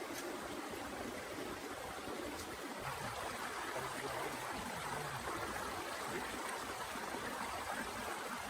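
Steady rushing of water, with a faint low hum coming in about three seconds in.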